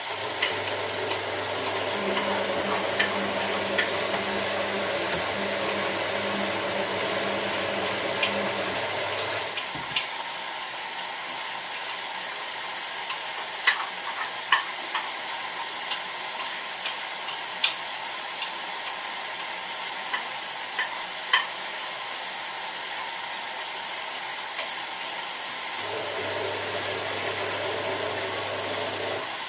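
Hotpoint 9534A washing machine tumbling its wash: the drum motor hums steadily over water swishing in the drum, stops suddenly about nine seconds in, and starts turning again near the end. During the pause the water keeps swishing, with scattered light clicks and knocks.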